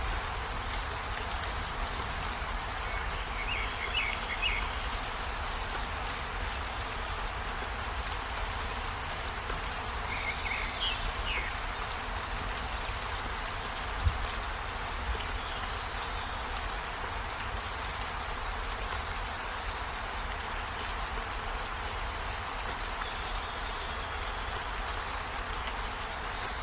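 Rainforest ambience: a steady, dense hiss with a low rumble beneath it, a few short chirps about three and ten seconds in, and a single sharp knock around the middle.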